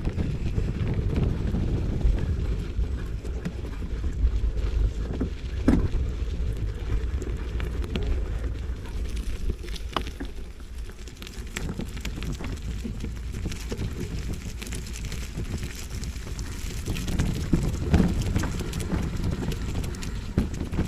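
Wind buffeting the microphone during a mountain-bike ride on a dirt trail, with scattered clicks and knocks from the bike over the rough ground.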